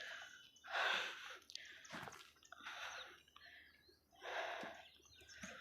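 A person's heavy breathing while climbing, with a breath about every second and a half and a few faint clicks between breaths.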